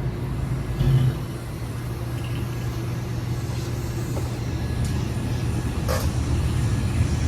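Ford Mustang GT's 4.6-litre two-valve V8 running at a low, steady engine speed, a deep even rumble through its still-muffled exhaust. There is a brief louder bump about a second in and a sharp click about six seconds in.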